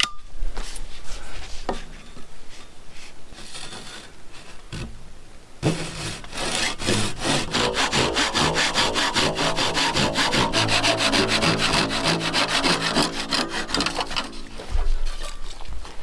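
Hand saw sawing with quick, even back-and-forth strokes. It starts about six seconds in, after some quieter handling knocks, runs for roughly eight seconds and stops near the end.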